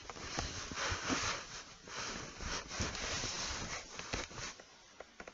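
Rustling and handling noise with scattered light knocks, which dies down about four and a half seconds in, leaving a few faint clicks.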